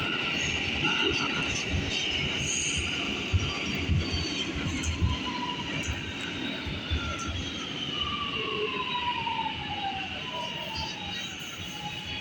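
R211A subway train running on the rails with steady rumble and clatter, its motor whine falling in pitch through the middle as the train slows into the station.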